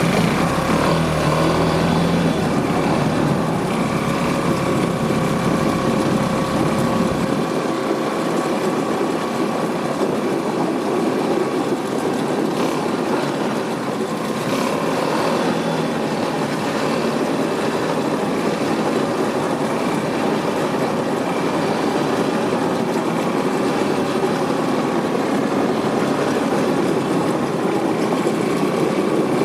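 A vehicle running on the road: steady engine and road noise, with a low rumble that drops away about seven seconds in.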